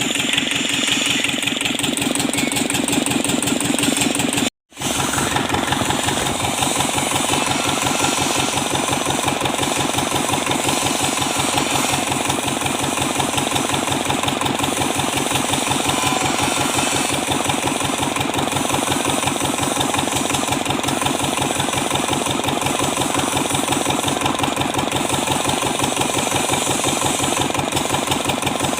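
Kubota Z751 two-cylinder diesel engine running steadily with an even, rapid knocking beat, broken by a split-second silent gap about four and a half seconds in.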